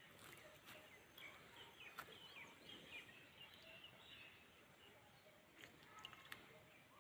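Faint chirping of birds: many short high calls overlapping throughout, with a few light clicks.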